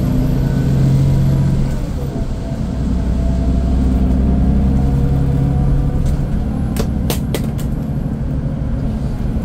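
Scania K410IB coach's diesel engine running while the bus is under way, its pitch shifting a few times as the revs change. A short run of sharp clicks or rattles comes about seven seconds in.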